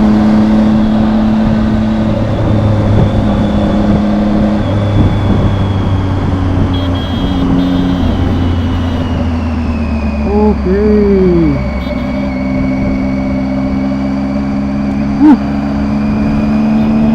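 Triumph motorcycle engine running steadily at highway cruising speed, its note stepping in pitch a few times, with wind rushing over the helmet-mounted microphone.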